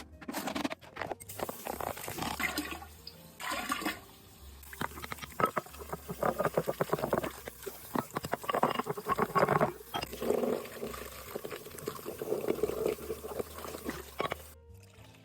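Water running and splashing, with irregular spatters and drips, cutting off suddenly near the end.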